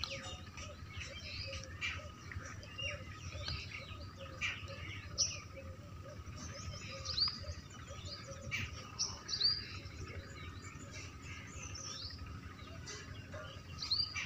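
Several birds chirping, with short, high, falling chirps scattered throughout over a low, quickly repeated call and a faint steady tone.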